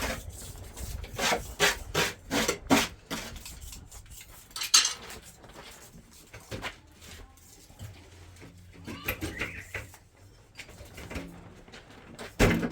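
Hand tools scraping and clinking on hard building materials: a quick series of rasping strokes, then a sharp knock and scattered lighter scrapes and taps, with a loud knock near the end.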